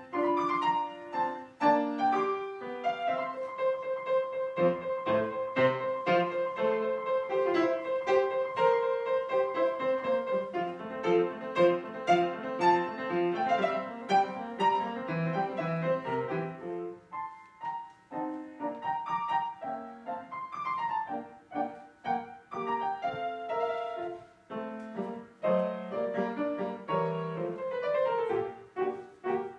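Classical chamber music for piano and a bowed string instrument. The string instrument holds one long note from about three seconds in until about sixteen seconds, over moving piano figures, then the piano carries on.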